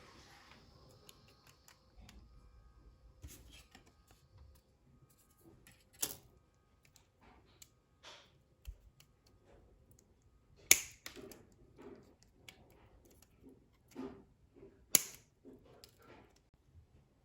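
Faint, scattered clicks and taps of small hard parts being handled on a diecast model car, with three sharper clicks: about six seconds in, about eleven seconds in and near the end.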